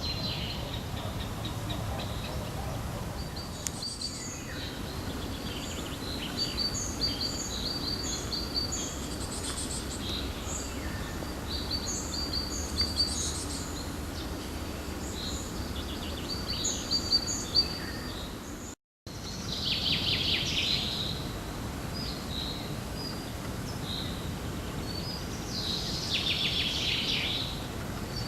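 Several songbirds singing: repeated short, high notes and quick trills over a steady low background rumble. The sound cuts out for an instant about two-thirds of the way through.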